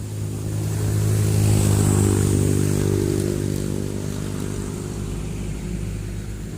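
Motor vehicle engine going by: a steady engine hum grows louder to a peak about two seconds in, then slowly fades.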